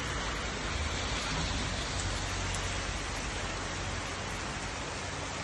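Steady hiss of summer rain falling, with a low rumble under it that eases after about four seconds.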